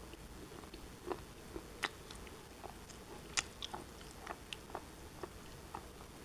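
Black shale pieces being bitten and chewed: a dozen or so sharp, irregular crunches and cracks, the loudest about two and three and a half seconds in.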